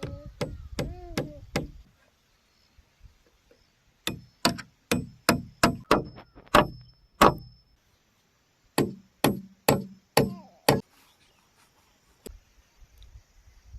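Repeated sharp blows of a tool striking bamboo, in three runs of several strokes each, about two to three a second, with short pauses between the runs.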